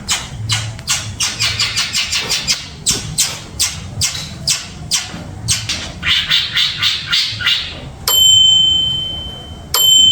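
Long-tailed shrike (pentet) giving a run of harsh, scratchy calls, about two to three a second. Near the end come two long, steady high-pitched tones.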